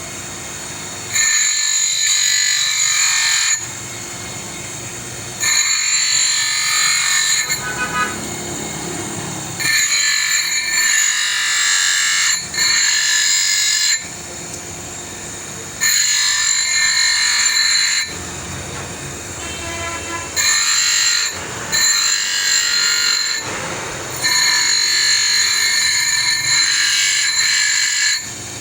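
A power tool running and being worked on and off the workpiece over and over: loud stretches of a few seconds with a steady high-pitched whine, alternating with quieter, lower running in between.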